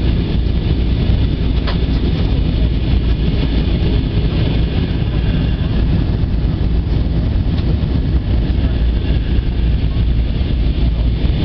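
Steady, deep rumble of engine and airflow noise inside the cabin of an Airbus A320 airliner in flight.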